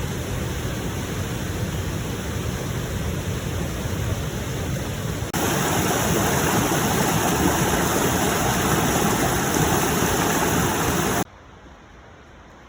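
Steady rush of running water. It gets louder at an abrupt change about five seconds in, then drops to a faint ambience near the end.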